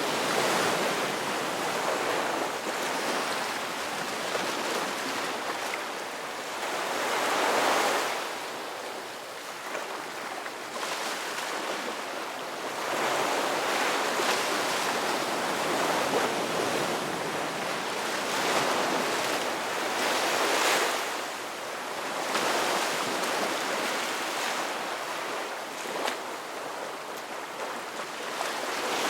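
Ocean surf: waves breaking and washing in, a steady rush that swells and falls back every several seconds.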